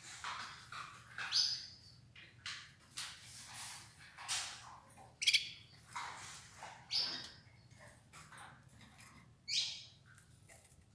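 Domestic Belgian canaries giving short, irregular chirps, a dozen or so, some sweeping up in pitch.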